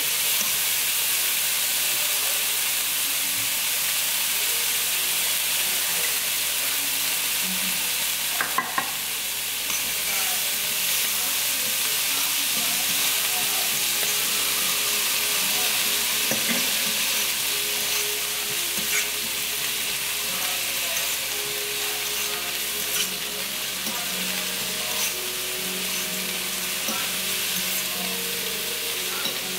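Diced bell peppers sizzling steadily in a nonstick frying pan while a spatula stirs them, with a few sharp clicks about nine seconds in.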